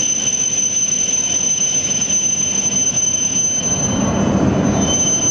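Shinkansen train at the platform: a steady high-pitched electric whine over a low rumble that grows louder about four seconds in.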